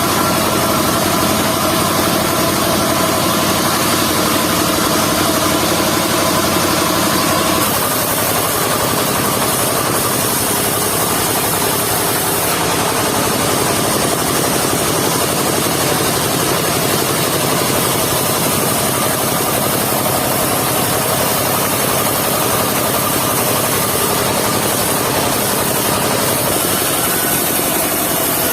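Engine-driven mobile circular sawmill running steadily. About a quarter of the way in its tone shifts and turns noisier, and it stays that way to the end.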